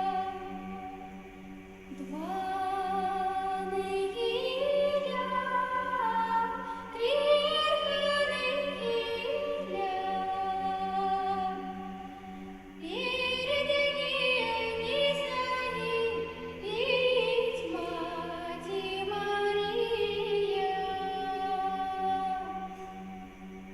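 Male choir singing a Nekrasov Cossack spiritual verse, its low voices holding a steady drone beneath. The upper voices enter in layered, swelling phrases about two seconds in and again about thirteen seconds in.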